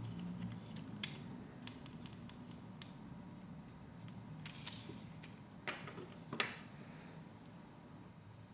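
Plastic Lego Technic pieces being handled and pressed together: about half a dozen light clicks scattered over several seconds, over a faint low hum.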